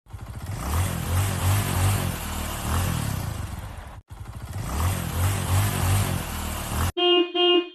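Engine running and revving with a fast low pulse. The same few seconds are heard twice, with a hard cut between them, and then come two short, steady, pitched beeps like a horn.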